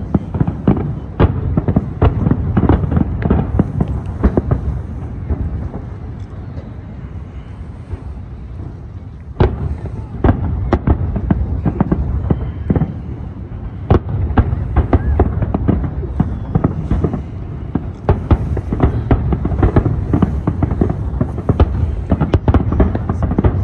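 Aerial fireworks display: a rapid, continuous barrage of bangs and cracks over a deep rumble of booms. It eases to a quieter patch about a quarter of the way in, then builds back up to a dense volley.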